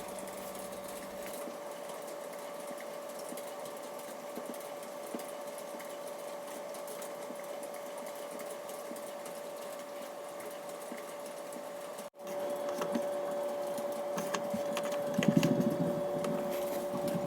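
A steady motor hum with one constant tone over a hiss. It cuts out abruptly about twelve seconds in and comes back a little louder.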